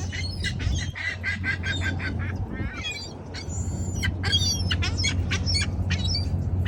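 A cluster of small birds chirping and squabbling over scattered food, quick repeated chirps one after another.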